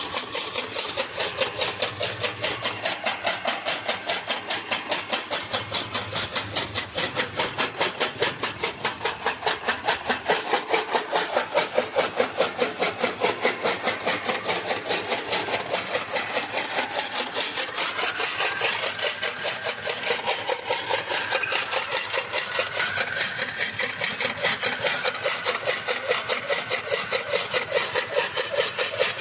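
Fodder chaff cutter chopping grass for cattle: a steady, fast run of even chopping strokes, several a second, over a machine drone.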